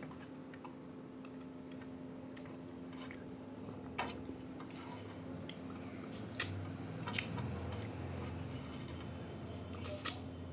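A person eating: soft chewing and squishing of food, with a few sharp clicks spaced a couple of seconds apart and a steady low hum underneath.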